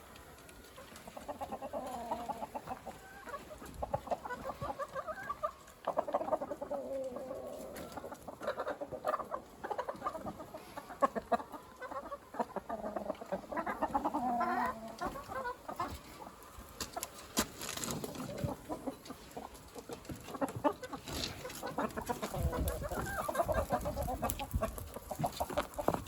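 Free-range chickens clucking, many short calls overlapping, mixed with scattered sharp ticks.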